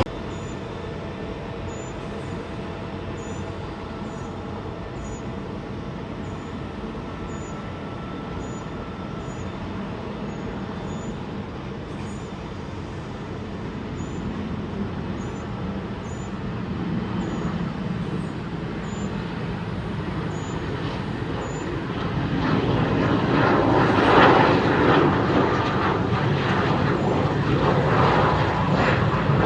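Dassault Falcon 20F jet's turbofan engines: a steady jet rumble with a faint whine that builds gradually and grows loudest over the last several seconds.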